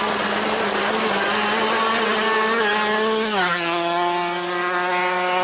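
Small high-revving drag-race motorcycle engine held at a steady high pitch, which drops about three and a half seconds in as the bike goes past, then holds steady at the lower pitch.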